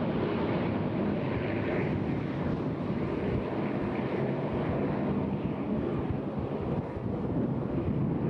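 Avro Lancaster's four Rolls-Royce Merlin piston engines droning steadily as the bomber passes overhead, with wind rumbling on the microphone.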